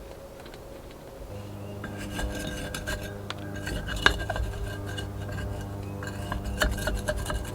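Clinks, knocks and scrapes of hard objects being handled during plant repotting, such as pots and a tool, with the sharpest knock about four seconds in. A steady low hum with a few steady higher tones starts suddenly about a second and a half in.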